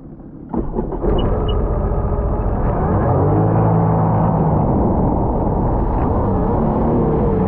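Sea-Doo personal watercraft engine coming in about half a second in and running loudly, its pitch rising and falling as it is revved.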